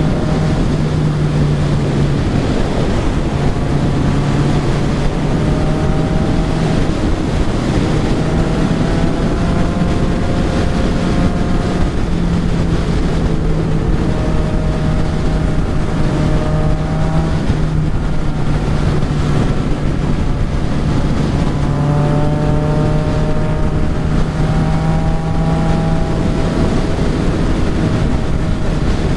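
Yamaha XSR900's inline-three engine pulling at cruising speed, its note climbing slowly and easing off a few times as the throttle is rolled on and off, under heavy wind rush over the camera microphone.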